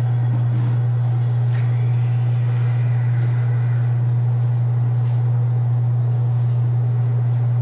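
A loud, steady low hum that does not change, with a faint tap or two on top.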